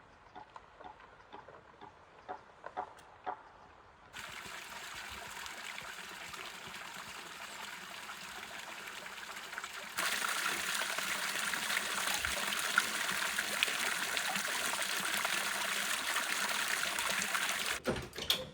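Water running and trickling, a steady hiss that comes in suddenly about four seconds in and gets louder about ten seconds in; light clicks and knocks before it.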